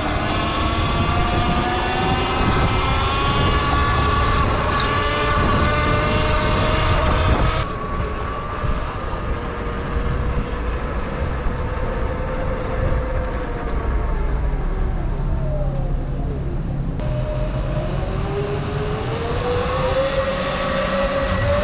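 Sur Ron electric dirt bike's motor whining while riding, its pitch rising and falling with speed, over a steady low rumble. The whine dips about two-thirds of the way through, then climbs again near the end.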